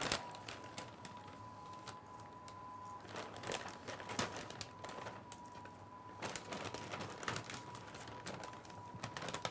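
Large plastic bag crinkling and rustling in irregular bursts as raw chicken breast pieces are handled into it, over a faint steady tone.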